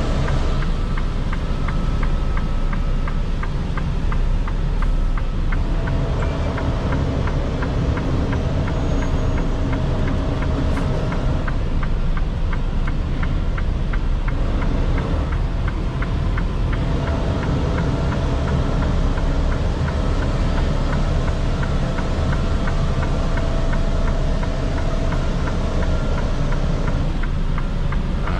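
Semi truck heard from inside the cab: a steady low engine and road rumble, with a faint regular ticking over it.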